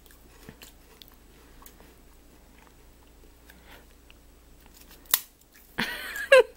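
Someone quietly chewing and crunching a light puffed-rice disc (ppeongtwigi), with faint scattered crackles. A sharp crack comes about five seconds in, and a short, louder sound that falls in pitch follows near the end.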